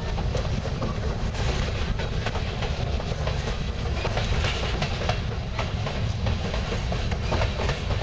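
Freight train of covered hopper cars rolling past close by: a steady rumble with the wheels clicking irregularly over the rail.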